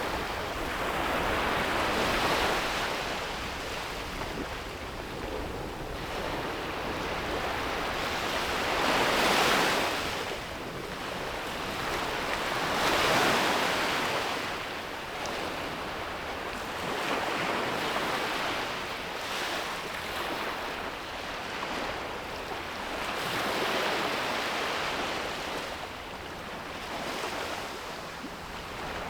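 Sea waves breaking and washing up a beach, the surf noise swelling and falling away every few seconds, with the strongest surges about a third of the way in and again near halfway.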